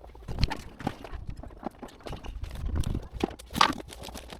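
Irregular knocks and clicks of hardware and tools being handled, with a low rumble in the middle and one louder knock near the end.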